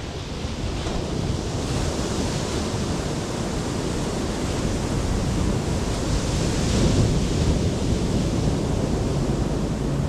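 Ocean surf washing on the shore with wind buffeting the microphone. A wave surges louder about two-thirds of the way through.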